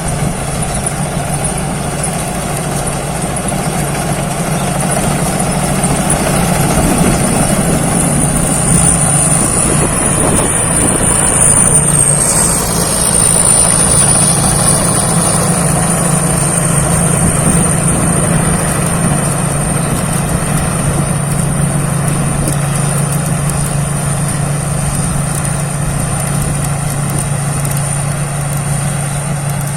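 Thai Seng Yont combine harvester running steadily while harvesting young glutinous rice, its engine a constant low hum with a thin high whine that wavers briefly about twelve seconds in.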